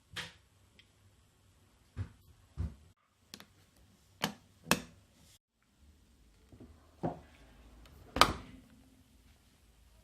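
A series of irregular sharp knocks and clicks, about eight in all, spaced a second or so apart, the loudest one near the end, as of hard objects being handled and set down.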